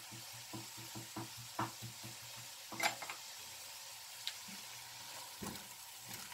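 A sofrito of onion, bell pepper and tomato paste sizzling gently while being stirred. The stirring utensil ticks against the pot several times a second for the first few seconds, with a louder knock about three seconds in and a few scattered taps after.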